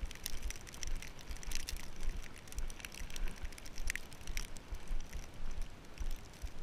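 Footsteps crunching through snow: irregular crackling clicks over a low rumble.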